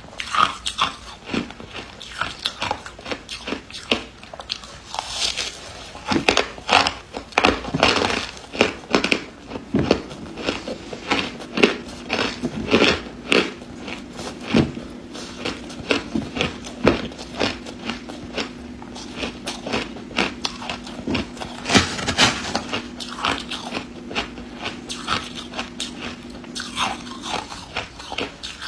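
A person biting and crunching hard ice close to the microphone: sharp, irregular crunches, in quick runs and short pauses. A steady low hum runs under it from about ten seconds in until near the end.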